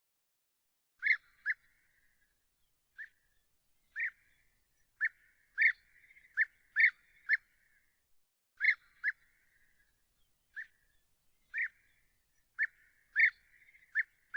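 A bird calling with short, sharp notes, often in pairs and irregularly spaced, some trailing into a brief rasp.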